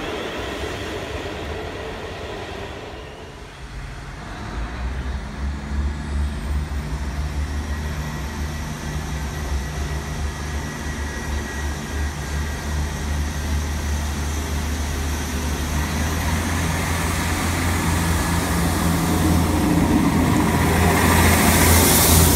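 Electric multiple-unit passenger trains at a station platform. A departing train fades away in the first few seconds. Then a steady low hum grows gradually louder, with rushing noise building near the end as a train passes close by.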